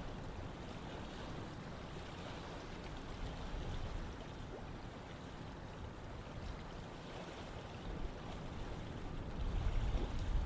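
Running water flowing steadily, a continuous rushing, with a deeper rumble swelling up near the end.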